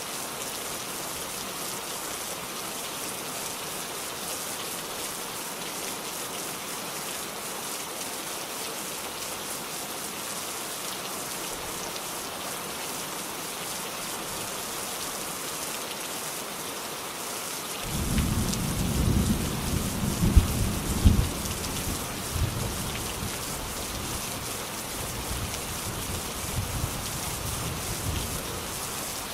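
Steady rain falling, a constant high hiss. About two-thirds of the way in, a thunderclap breaks in suddenly with two loud cracks, then rumbles and fades over the following seconds under the rain.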